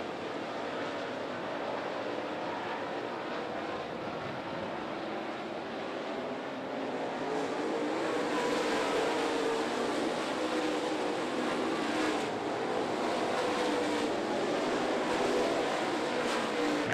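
Dirt-track race cars running at speed, a steady engine drone that grows louder about eight seconds in as the cars come closer.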